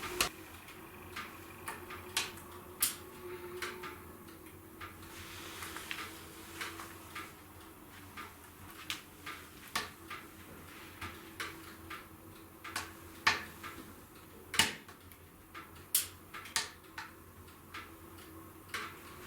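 Wood fire in a fireplace crackling: irregular sharp pops and snaps, some of them much louder than the rest, over a faint steady hum.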